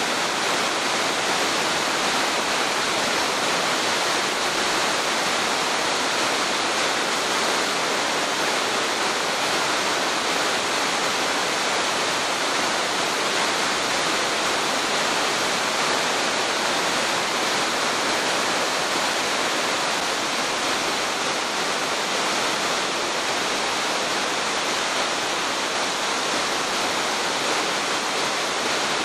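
Waterfall pouring down a cliff into a river gorge: a steady, unbroken rush of falling water.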